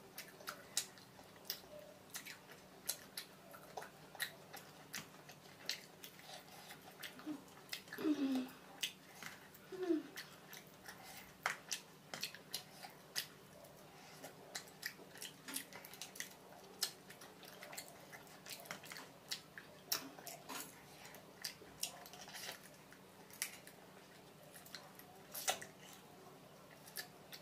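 Close-miked mouth sounds of eating fried fish by hand: wet chewing with frequent sharp lip-smacking clicks, two or three a second, as flesh is sucked off the fish bones.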